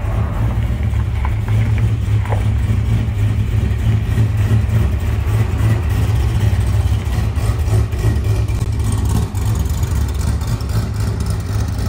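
Stroked LS V8 of a C6 Corvette running at low speed, a steady, deep exhaust rumble with a rapid uneven pulse.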